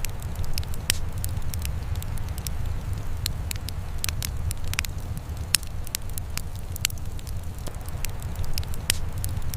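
Wood fire crackling, with sharp irregular pops several times a second over a steady low rumble.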